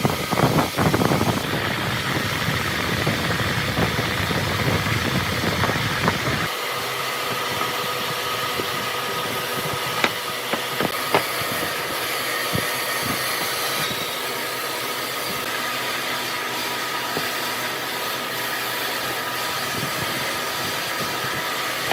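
A workshop power tool's motor running steadily with a constant whine; its heavy low rumble drops away about six seconds in, and a few sharp knocks sound near the middle.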